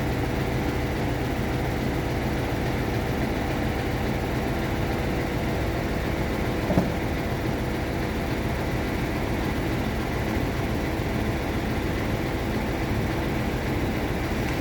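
Steady mechanical drone with a low hum, and a single short knock about seven seconds in.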